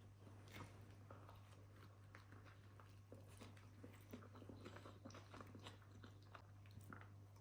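Faint, irregular crunching and clicking of someone chewing crunchy food, over a steady low hum.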